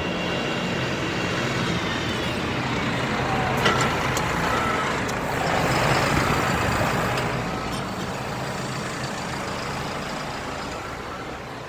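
A heavy vehicle's engine running as it passes, swelling to its loudest about halfway through and then easing off.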